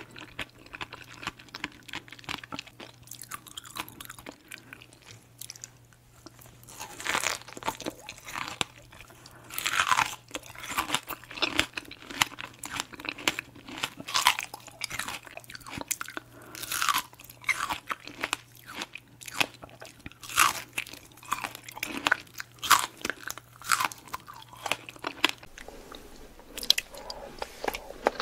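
Close-miked bites and chewing of fresh fruit, a strawberry among it: a dense, irregular run of sharp crunches and wet, juicy clicks.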